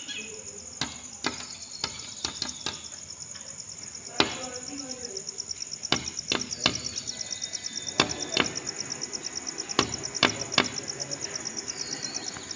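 A small bird pecking at a glass pane: sharp, irregular taps, often two or three in quick succession.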